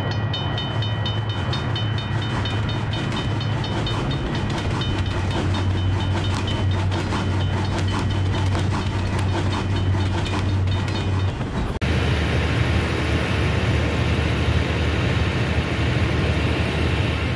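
Train sound effect of rapid, regular clicking over a low steady rumble with a few steady high tones. About twelve seconds in it cuts abruptly to the steady, noisy rumble of a railway station.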